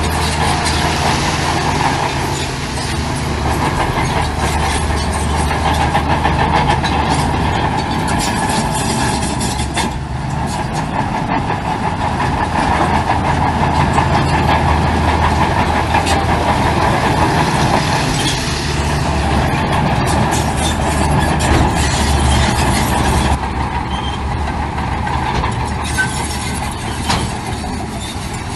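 Heavy diesel earthmoving machinery running steadily, a deep engine rumble with a busy mid-range mechanical hum, easing slightly a few seconds before the end.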